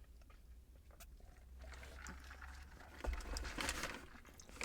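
Close-miked eating sounds: chewing with small mouth clicks, growing louder and crackly about three and a half seconds in.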